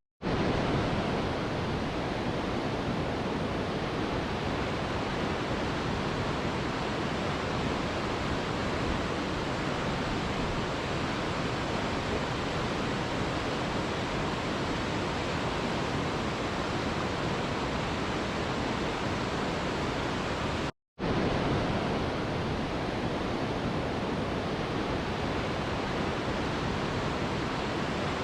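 Mountain river rushing, a steady, even roar of flowing water. It drops out to silence for a split second about three-quarters of the way through, then carries on unchanged.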